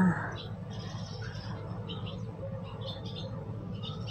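Faint, scattered short bird chirps over a steady low background hum.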